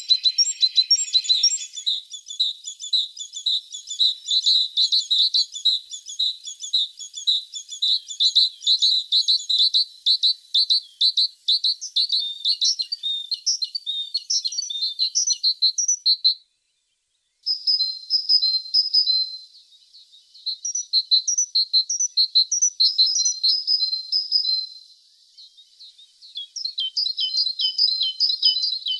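Tit singing: fast, high-pitched trills of rapidly repeated notes, cut off by about a second of silence just past the halfway point before the song resumes.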